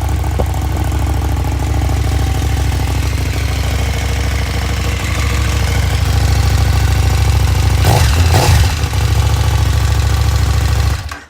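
A 2016 KTM 1290 Super Duke GT's 1301 cc V-twin idling through its stock exhaust, steady and deep. A short burst of noise comes about eight seconds in, and the sound stops abruptly near the end.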